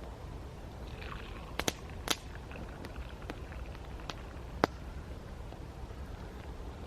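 Campfire crackling: a few sharp, isolated pops and snaps, the loudest about two-thirds of the way in, over a low steady rumble of outdoor background.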